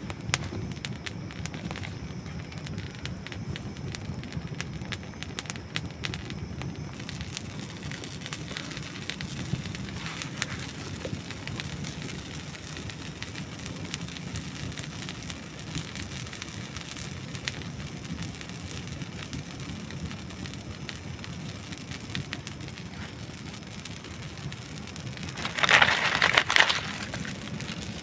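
Dry wood burning in a campfire, crackling and popping steadily over a low rumble of the flames. A louder burst of crackles comes near the end.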